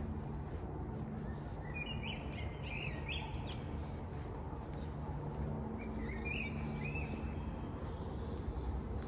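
A small songbird singing two short bursts of chirping notes, about two seconds in and again about six seconds in, over a steady low background hum.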